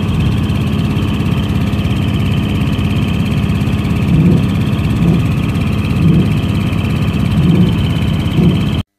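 Large truck's diesel engine idling steadily, with a few brief swells in the low rumble in the second half. The sound cuts off abruptly near the end.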